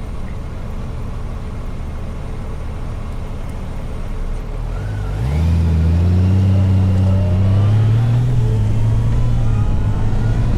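Motorcycle engine running low, then about five seconds in it gets louder and its pitch climbs steadily as the bike accelerates away.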